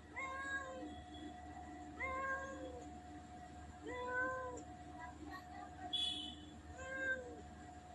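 Domestic cat meowing four times, each meow short and arched in pitch, spaced about two seconds apart.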